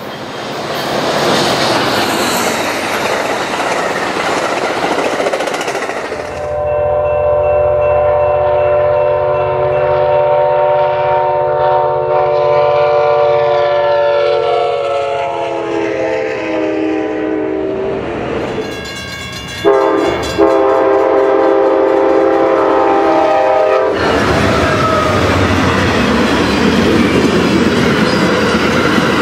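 Fast diesel passenger trains passing at speed, wheels and cars rushing by. In the middle a multi-tone air horn sounds long, its chord dropping in pitch as the train goes by, then a second long horn blast follows.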